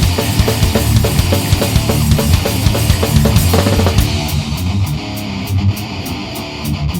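Rock band playing an instrumental passage on electric guitars, bass and drums. About four seconds in, the full band drops back to a thinner, quieter part with a steady tick in the high end about four times a second.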